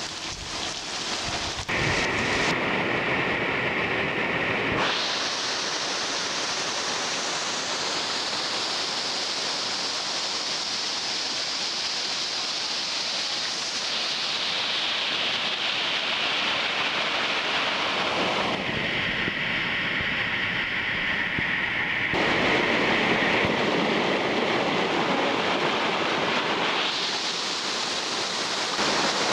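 Steady rain with a hissing sound, its tone changing abruptly several times as different rain recordings follow one another.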